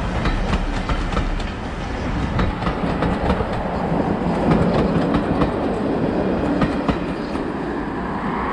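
A rake of railway passenger coaches rolling past close by, their wheels clicking steadily over the rail joints above a constant rumble.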